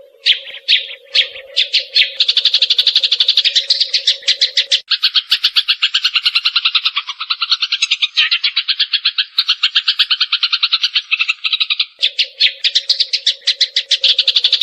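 Eurasian tree sparrows chirping in fast, unbroken trains of about ten sharp chirps a second, in the rapid 'tembakan' style. A low steady hum sits underneath for the first few seconds and again near the end.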